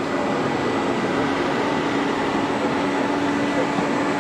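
Steady droning background din with a constant low hum: the ambience of a large exhibition hall, with ventilation and machinery noise.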